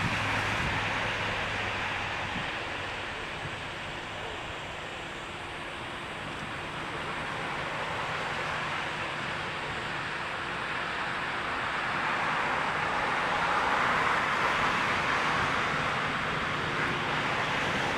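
Jet airliner noise from the Boeing 777-300ER's GE90 engines climbing away after takeoff: a broad rushing roar that dips midway and swells again near the end.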